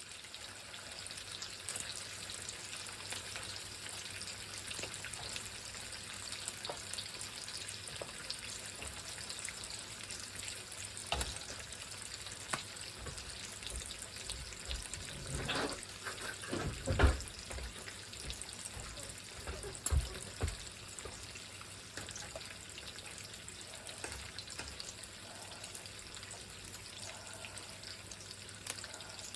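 Food sizzling and crackling in a frying pan, with a few knocks around the middle, the loudest about halfway through.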